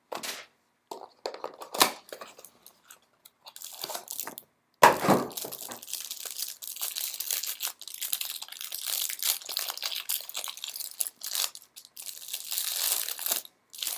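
Trading card box packaging being torn open: crackling and rustling, a sharp loud rip about five seconds in, then steady crinkling as the pack wrapper is worked open.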